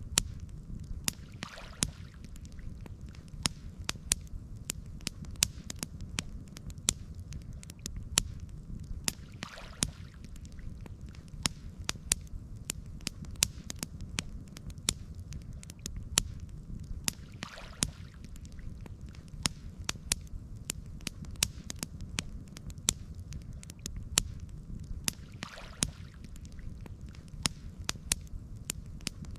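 Campfire crackling: many sharp pops and snaps over a steady low rumble, with a soft wash coming back about every eight seconds.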